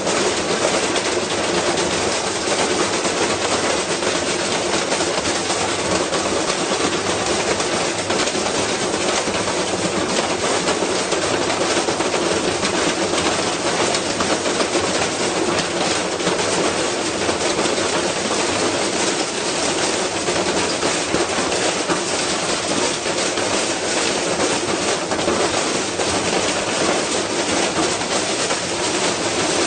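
Washing machine spinning with a heavy object loaded inside, its unbalanced drum thrashing and the cabinet rattling and clattering without letup.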